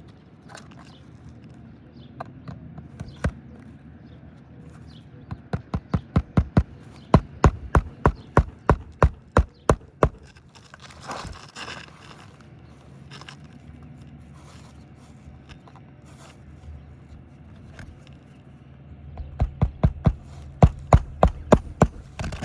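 Hammer driving roofing nails into asphalt shingles: a run of quick, evenly spaced strikes, about three a second, in the middle, and a second run near the end, with a brief scraping in between.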